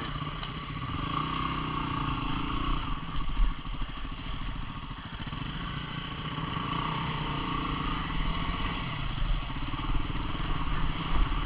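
A 250 cc single-cylinder dual-sport motorcycle engine running along a rough trail, its revs rising and falling as the throttle is worked.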